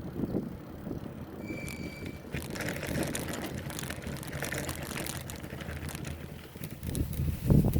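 Bicycle being ridden, with wind rumbling on the microphone and the rattle of the bike over the road; a brief high squeal about a second and a half in and a heavy thump near the end.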